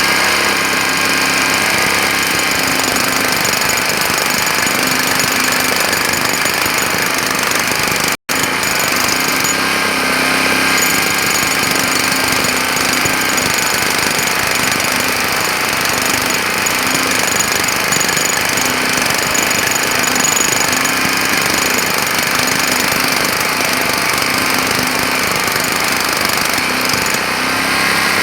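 Jackhammer hammering continuously and loudly, with one split-second cut to silence about eight seconds in.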